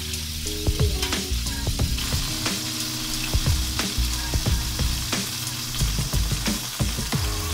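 Chicken pieces frying in hot oil and chicken grease in a pan, sizzling steadily with frequent sharp crackling pops.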